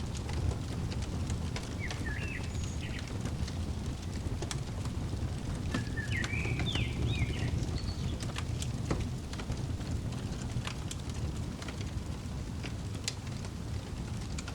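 Crackling wood fire: a steady low rumble with scattered sharp pops and snaps. A songbird chirps a few short phrases about two seconds in and again around six to seven seconds.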